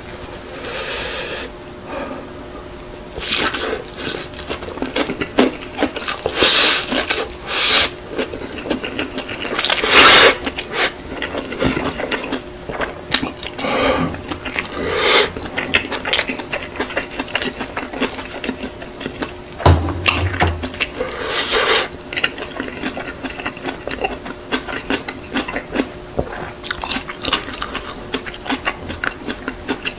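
Close-miked chewing and wet mouth sounds of a person eating a bite of spicy stir-fried noodles wrapped in kimchi, in irregular crunchy, smacking bursts, loudest about ten seconds in. A faint steady hum runs underneath.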